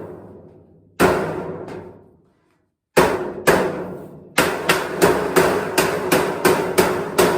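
Hammer striking sheet-metal ductwork, each blow ringing and dying away. A few separate blows come first, then from a little past the middle a steady run of about three blows a second.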